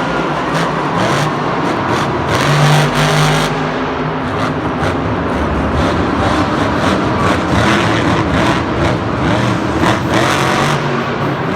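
A monster truck engine running loudly and revving, its pitch rising and falling over a steady, noisy background.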